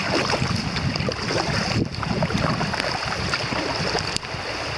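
River water splashing and gurgling around a kayak as it runs through riffles.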